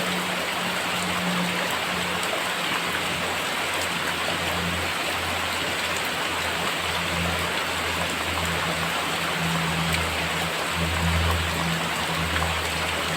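Very heavy rain falling steadily, with a low hum that comes and goes underneath.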